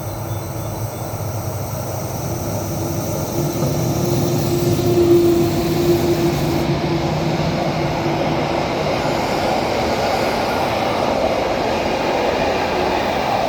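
Rhaetian Railway train hauled by two Ge 4/4 II electric locomotives passing close by. A steady electric hum from the locomotives swells to its loudest about five seconds in, then gives way to a continuous rumble of wheels on track as the coaches roll past.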